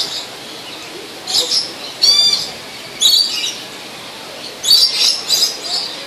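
Birds calling: short, high-pitched chirps repeated every second or so, with a quick run of several calls near the end.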